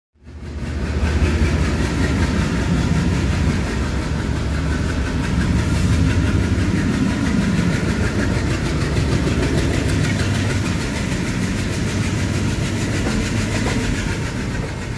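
Passenger express train running, heard on board: a deep, steady rumble of the train on the rails.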